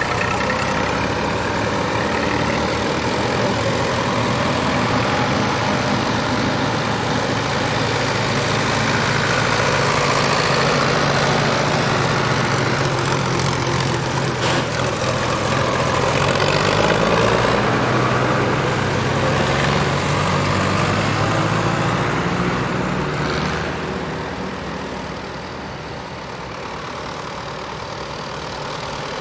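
Tractor engines running as tractors drive past, the sound building to its loudest through the middle, easing off about three-quarters of the way in and rising again near the end.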